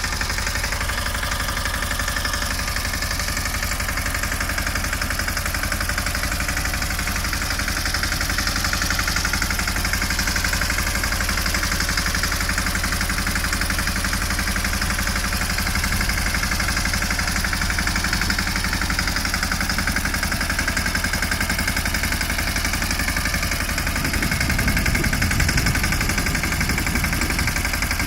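Tractor engine running steadily, with a fast, even firing rhythm. It gets louder and heavier in the low end about 24 seconds in.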